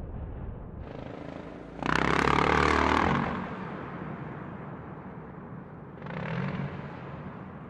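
Motorcycle engine revving in two bursts: a loud one about two seconds in and a shorter, quieter one about six seconds in, over a low rumble.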